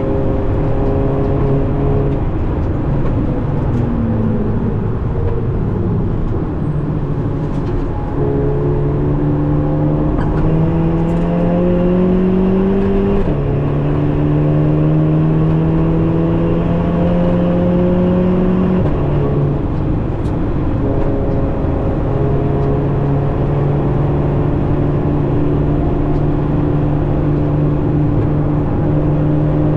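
Tuned VW Golf 7.5 GTI Performance's 2.0-litre turbocharged four-cylinder (EA888 gen 3) heard from inside the cabin under hard driving. Its pitch climbs and falls with the revs and drops quickly at each DSG gearshift, over steady tyre and road noise.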